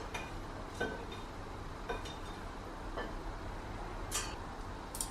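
Light clinks and knocks of kitchenware, glass or ceramic dishes and utensils being handled and set down, six short strikes about a second apart, some with a brief ring, over a steady low hum.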